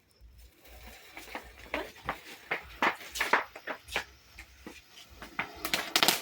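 Small firework sputtering with scattered pops and crackles, building into a dense, rapid crackle near the end.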